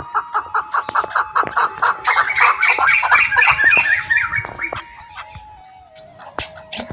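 Chickens clucking in quick repeated calls, about five a second. The calls grow louder and higher into a crowded cackle for a couple of seconds, then thin out to a few scattered clucks near the end.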